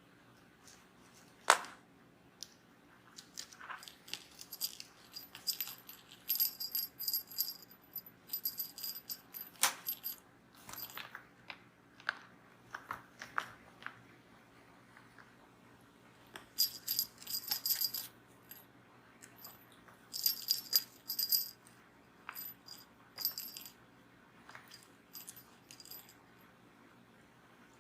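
Cat toy with a small bell jingling and rattling in irregular bursts as a kitten bats at it. There is a sharp click about a second and a half in, and two longer runs of jingling, one in the first half and one in the second.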